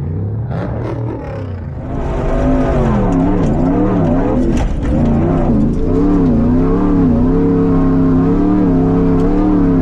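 Off-road race truck engine revving on the sand dunes, getting louder about two seconds in, its pitch rising and falling again and again as the throttle is worked.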